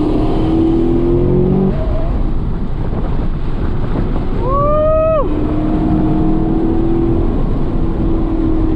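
Chevrolet Camaro V8 heard from inside the cabin at track speed, with its drone rising slowly in pitch as the car accelerates over road and wind noise. A brief high squeal rises, holds and drops about halfway through.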